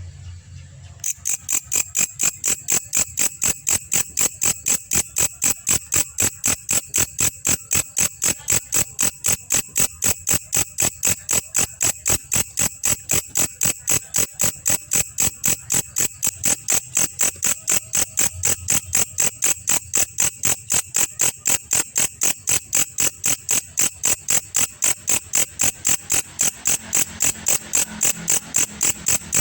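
Belalang kecek insect calling: a loud, rapid, even train of high clicking chirps, about four a second, that starts about a second in.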